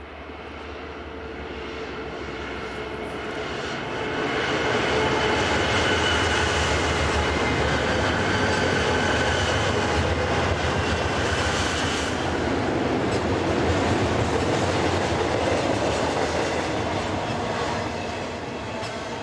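A BNSF double-stack container train passing close by: its diesel locomotives grow louder over the first few seconds as they come past, then the container cars roll by with a steady rumble and wheel-on-rail noise that eases slightly near the end.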